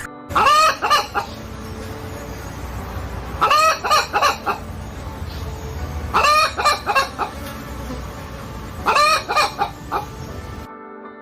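Chicken calling four times, about three seconds apart, each call a quick run of several notes.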